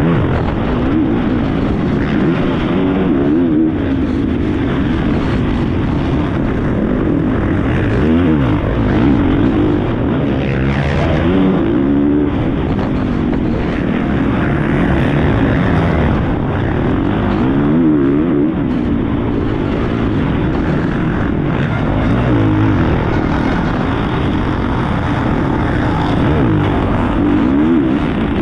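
Four-stroke 450 cc motocross bike engine, recorded onboard during racing, revving up and dropping back over and over as the rider accelerates, shifts and shuts off for corners.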